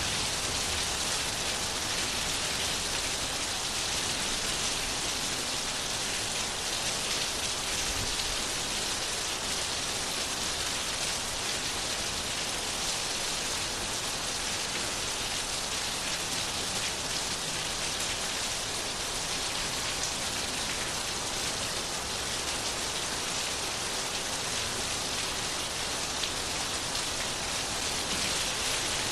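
Steady rain falling and pattering on a surface, an even hiss with no breaks.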